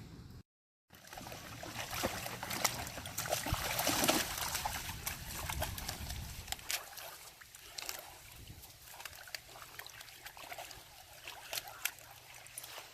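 Water splashing and trickling with many small clicks and splats, busier in the first half and quieter after about six seconds. The audio drops out completely for a moment just after the start.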